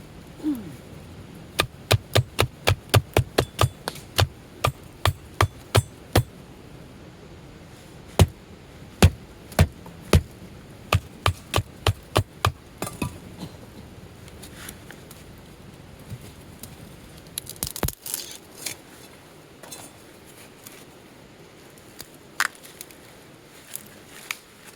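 A wooden baton knocking on the spine of a knife to split firewood (batoning): quick sharp knocks, about three a second, in two runs with a short pause between, followed by a brief flurry of cracking and a few scattered knocks.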